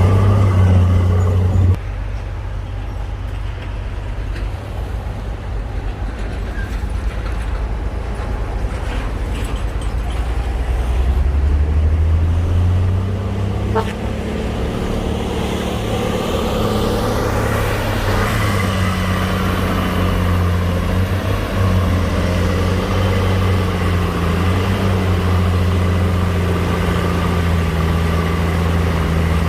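Heavy diesel engine of earthmoving machinery running under changing load. Its level drops abruptly about two seconds in, then builds up and runs steadily louder, with a rising whine about halfway through.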